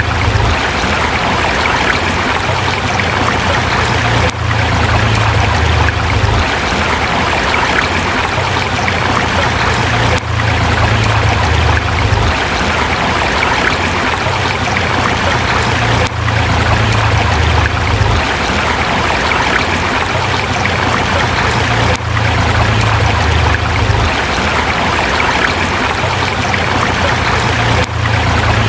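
Forest river rushing steadily over rocks, with a low rumble underneath that comes and goes every few seconds.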